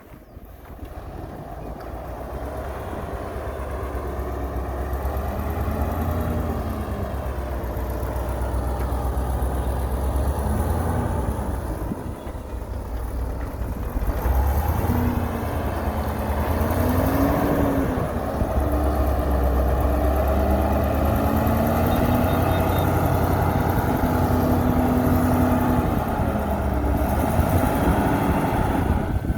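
Heavy diesel engine of a construction machine working, growing louder over the first few seconds, its pitch rising and falling again and again as it revs up and eases off.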